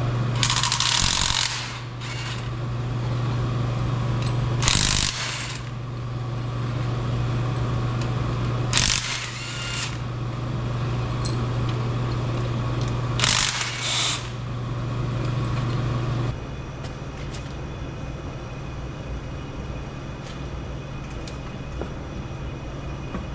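Four short bursts of a power tool working on engine fasteners, spaced a few seconds apart, over a steady low machine hum that cuts off suddenly about 16 seconds in.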